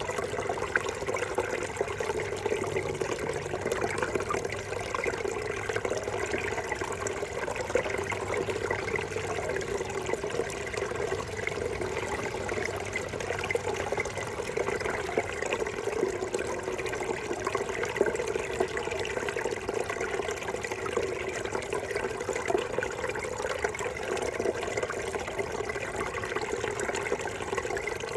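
Small forest brook babbling steadily over stones, a continuous rush of water with no let-up.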